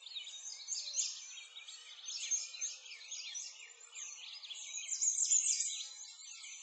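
Many songbirds chirping and singing at once, a dense chorus of short, quick overlapping calls.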